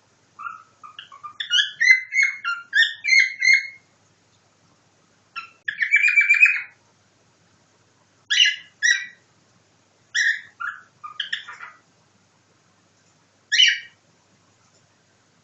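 Cockatiel whistling song copied from a nightingale: a quick run of short whistled notes rising and falling, then a buzzy trill about six seconds in. After that come single sharp calls a second or two apart.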